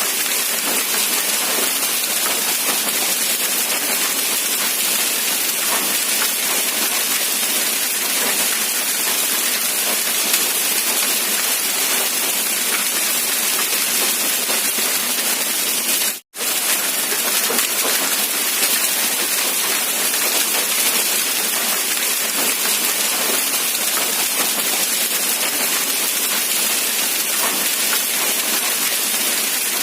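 Steady rain falling, a dense even hiss with no distinct drops standing out. It cuts out for a split second about halfway through, then carries on unchanged.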